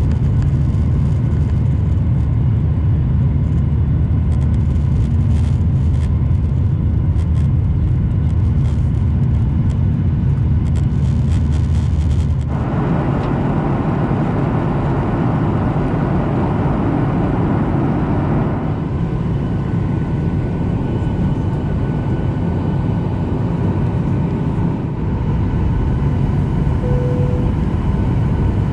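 Boeing 737 jet engines and airflow heard from inside the cabin, a steady heavy rumble. About twelve seconds in the sound changes abruptly: the deep rumble falls away and a higher rushing noise takes over, easing a few seconds later.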